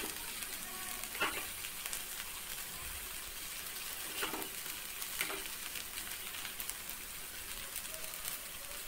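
Chopped okra with onions and chana dal sizzling in oil in a frying pan, a steady frying hiss. A few brief, fainter sounds come over it.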